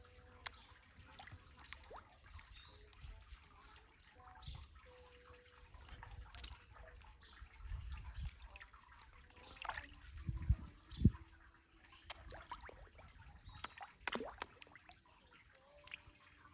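Faint trickling water at a rock pool, under a steady high-pitched whine. A few sudden knocks or splashes come about ten and eleven seconds in; the one near eleven seconds is the loudest sound.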